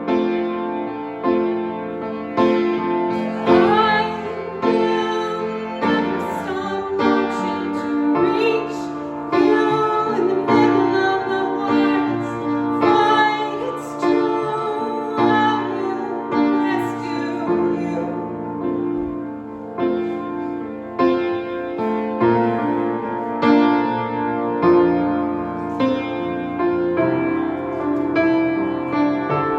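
Piano music played live, with a woman's voice singing over it at times.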